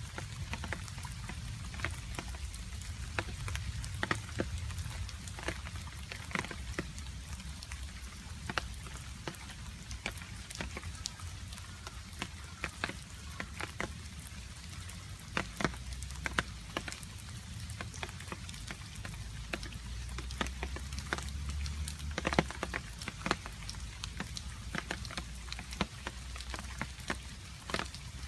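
Rain falling, with water drops dripping irregularly onto a surface as many separate sharp plinks, over a steady low rumble.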